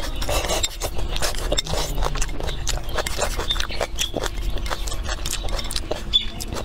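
Close-up chewing with lip smacks, as a series of irregular wet clicks and crackles. Wooden chopsticks click and scrape against an earthenware bowl.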